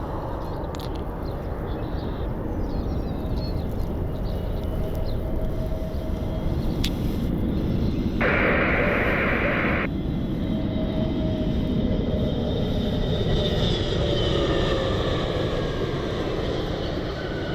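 Jet airliner engines: a continuous rumble, joined in the second half by whining tones that glide in pitch as the aircraft passes.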